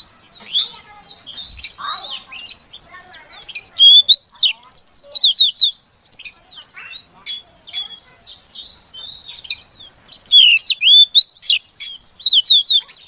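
Female oriental magpie-robin (kacer) calling in a fast, busy stream of chirps and whistles. About four seconds in there is a loud run of quick repeated falling notes, and a second one about ten seconds in. These female calls are used to provoke a silent male to sing.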